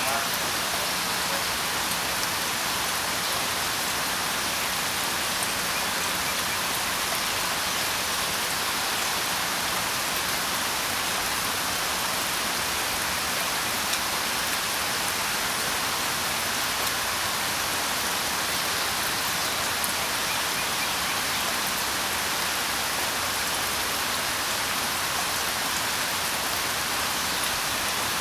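Steady rain falling, an even dense hiss with scattered faint drop ticks.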